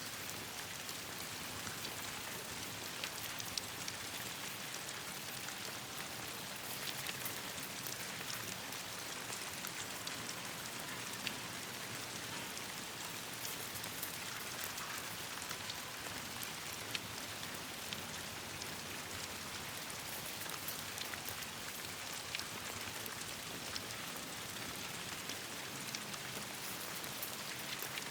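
Steady rain falling, an even hiss dotted with many scattered sharp ticks.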